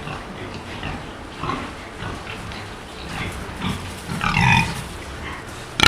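Pigs grunting in a run of short, irregular calls, with a louder call about four seconds in.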